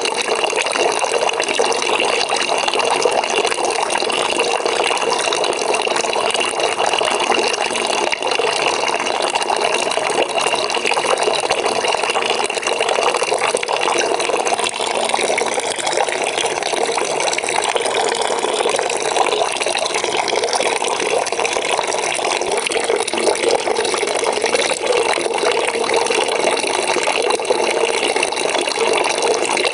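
Water running from a tap into a bucket, a steady splashing fill.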